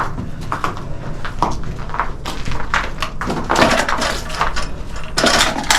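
Irregular knocks, scrapes and rustling, with a denser cluster of scraping about halfway through and again near the end.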